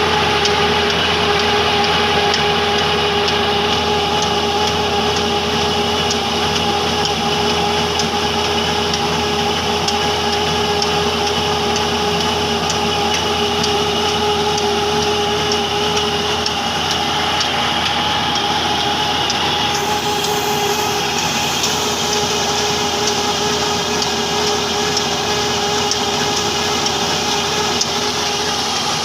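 Heavy Hornsby-type black diesel engine running steadily under load, driving a mini rice mill, with a steady whine from the machinery over the engine's fast regular beat. A high hiss joins about two-thirds of the way through.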